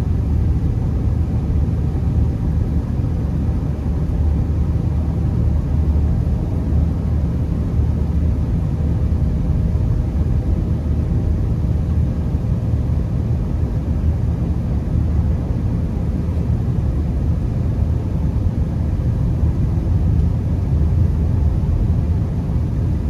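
Inside a moving Honda Accord on a snowy road: a steady low rumble of road, tyre and engine noise that holds unchanged throughout.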